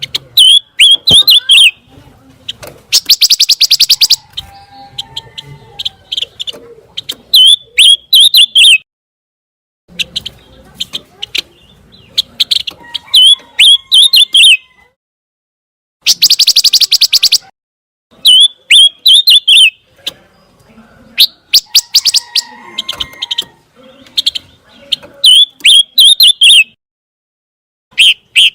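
A pancawarna bird singing in repeated loud phrases. Each phrase mixes quick high chirps with fast buzzy trills and is followed by a short pause.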